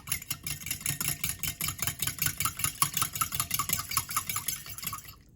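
A spatula stirring and scraping in a pan of stir-frying chicken and broccoli, in quick repeated strokes over a steady low rumble. The clatter stops near the end.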